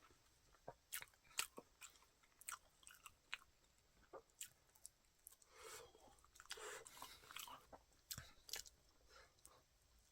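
Quiet chewing and mouth sounds of a person eating cooked sweet potato, with scattered small clicks and a few softer chewing patches toward the second half.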